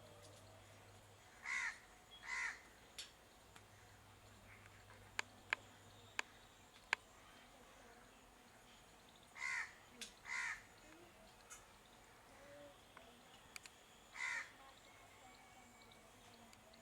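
Short harsh bird calls over a faint steady background, coming in pairs and then singly, with a few sharp clicks between them.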